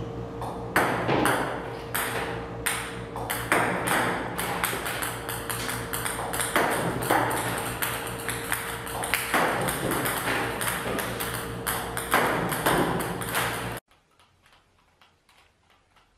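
Table tennis balls clicking rapidly and irregularly on the table, served by a ball-throwing robot, over a steady hum. The sound cuts off suddenly near the end.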